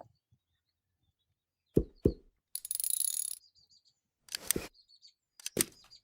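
Two sharp knocks close together, a short rustling hiss, then a few more knocks, with faint high bird chirps between them.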